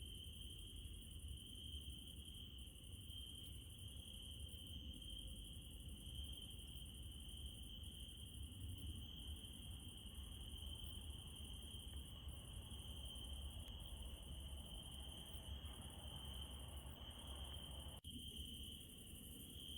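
Crickets trilling steadily at night: one unbroken high trill, with a still higher chorus that breaks off briefly now and then, over a faint low rumble. The sound drops out for an instant near the end.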